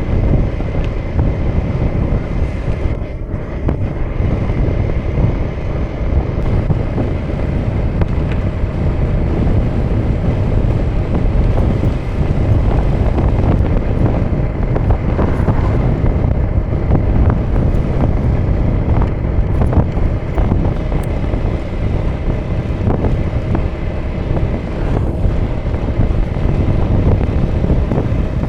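2018 Honda Vision scooter's small single-cylinder engine running steadily while riding, mostly buried under loud wind buffeting on the action camera's microphone.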